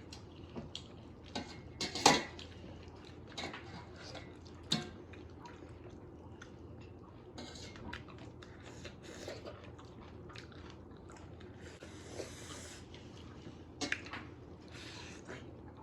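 People eating at a table: scattered clinks of spoons on plates and soft chewing, with one sharp clink about two seconds in the loudest.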